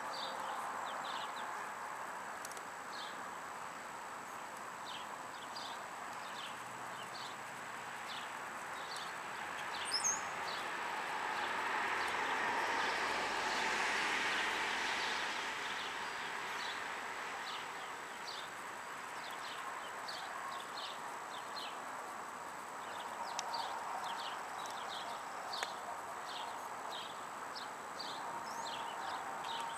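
Outdoor ambience with a bird chirping over and over in short, high notes. A broad swell of noise rises and fades around the middle.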